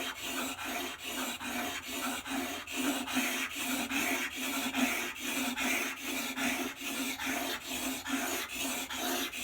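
Steel plane blade rubbed back and forth on 400-grit abrasive paper, a steady rasping scrape at about three strokes a second, grinding the primary bevel at 38 degrees.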